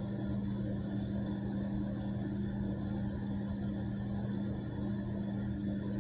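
A steady low hum over a constant background noise, unchanging throughout.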